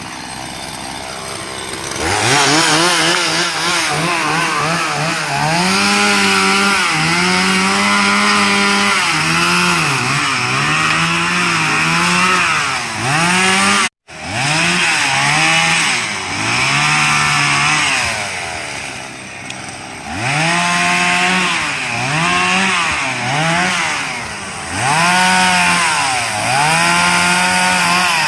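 Chainsaw cutting wood, its engine repeatedly revving up to a high held pitch and dipping as it loads in the cut. The sound drops out abruptly for an instant about halfway through.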